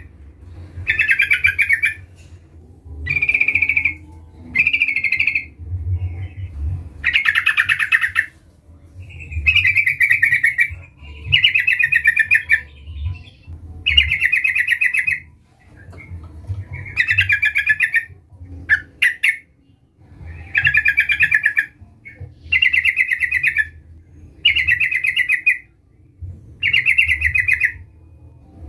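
Yellow-vented bulbul (trucukan) singing in full voice: short, rapidly pulsing chattering phrases about a second long, repeated every two seconds or so, over a low steady hum.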